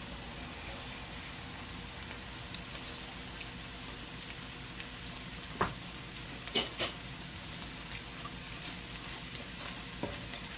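Stir-fried bitter gourd with bacon sizzling softly in a hot metal pan. A little past the middle, a utensil knocks twice in quick succession against the pan, two sharp clicks that are the loudest sounds.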